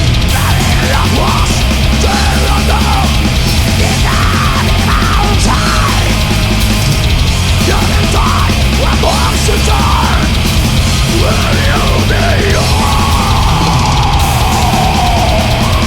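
Black metal band playing live at full volume: fast distorted guitars over dense pounding drums and bass, with short harsh vocal phrases over the top. Near the end a long held note slides slowly down.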